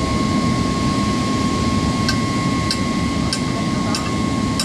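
Loud, steady machinery drone with a constant high whine, and from about halfway through a regular ticking, roughly one and a half ticks a second.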